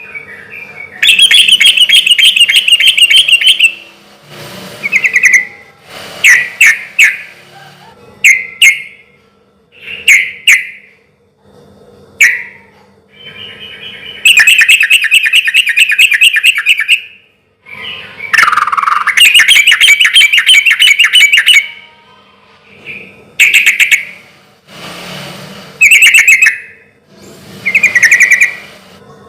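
Yellow-vented bulbul (trucukan) singing loudly in full song. Short bubbly chirping phrases are broken by three long, rapid chattering trills.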